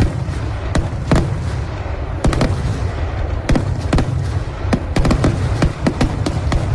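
Kerala vedikettu fireworks going off: a rapid, irregular string of sharp bangs, several a second, over a continuous low rumble.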